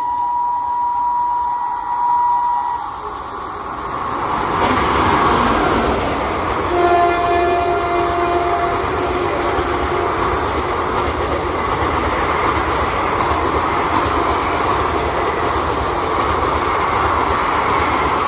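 Indian Railways express hauled by a WAP4 electric locomotive running through at speed. A train horn sounds for about three seconds at the start and again, lower, for about two seconds as the train arrives. The loud, steady rush and rapid wheel clatter of the passenger coaches passing close by then carries on to the end.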